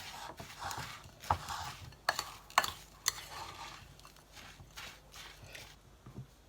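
Crushed digestive biscuit crumbs and melted butter being stirred together in a bowl: an irregular gritty scraping with a few sharp clicks against the bowl, dying away near the end.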